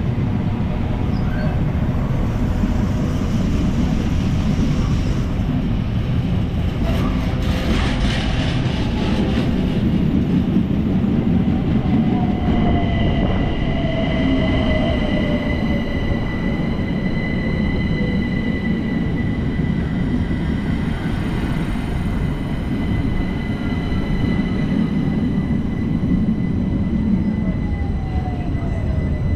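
Trains at a station platform: the steady rumble and clatter of a container freight train running past, then an electric multiple-unit passenger train alongside. A long high steady whine runs through the middle, with falling squeals in the middle and near the end.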